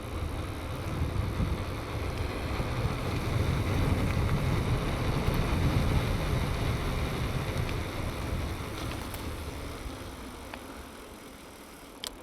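Riding a bicycle: wind buffeting the microphone over the rumble of the tyres, easing off over the last few seconds, with a few light clicks near the end.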